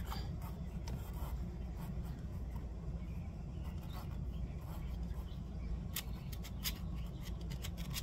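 Faint handling noises, a few sharp little clicks and rubbing, over a steady low hum; the clicks come in a cluster about six to seven seconds in.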